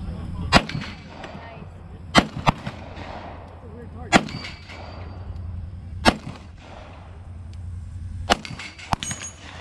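Gunshots fired one at a time at a steady pace, about seven sharp cracks one to two seconds apart, with a pair fired closer together a couple of times.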